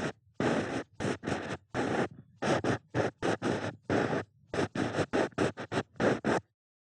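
Ear pick scratching and scraping in an ear in a rapid series of about twenty short strokes, several coming in quick runs of three or four.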